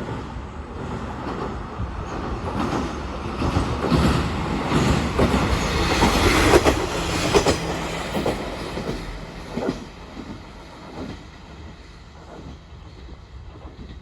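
KiHa 40 diesel railcar running past, its wheels clacking over the rail joints. It grows louder to a peak about halfway through, then fades away.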